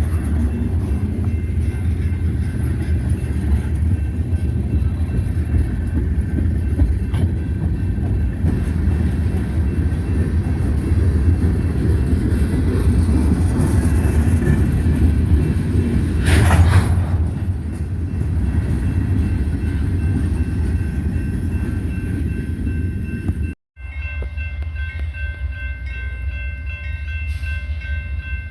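Freight train rolling past, a steady low rumble of wheels and railcars. A brief louder high screech about sixteen seconds in; after a short dropout near the end, several steady high tones sound over the rumble.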